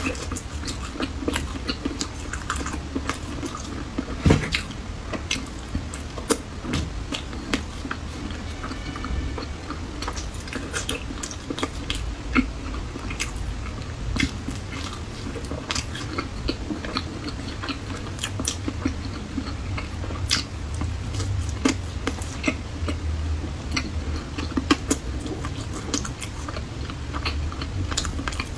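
A person biting into and chewing thick-cut chocolate whole-wheat toast spread with green pepper sauce: irregular wet chewing with scattered mouth clicks, over a faint low steady hum.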